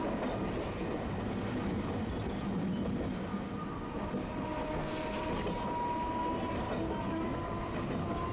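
Tosaden streetcar running along its tracks with a steady rumble. About four seconds in, a thin high tone joins it and holds to the end.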